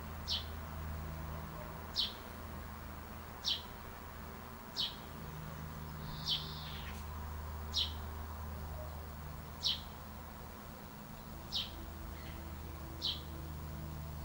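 A bird repeating one short, high note that falls in pitch, about every one and a half seconds, over a steady low hum.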